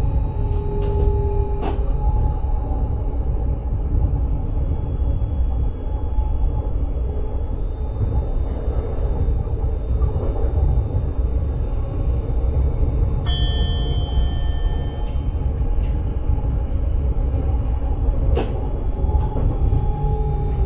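Electric sprinter train running along the line, heard from the driver's cab: a steady low rumble with faint steady tones over it and a few sharp clicks. About two-thirds of the way through, a short steady tone sounds for about two seconds.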